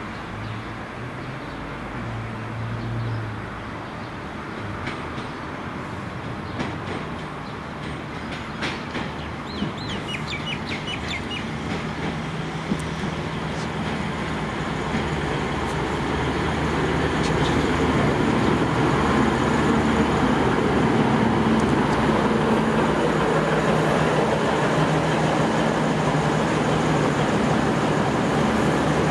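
V/Line VLocity diesel multiple unit running into the station: its wheels click over the rail joints and points, then the steady hum of its diesel engines grows louder as the cars draw alongside and holds.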